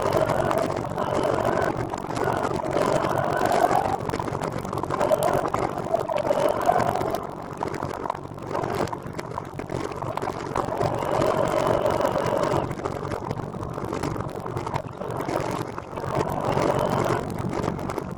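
Motor vehicle traffic: engines running and swelling in and out as vehicles pass every few seconds.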